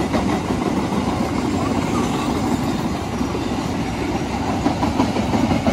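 Train passing on the rails: a steady, even running noise of wheels and rolling stock.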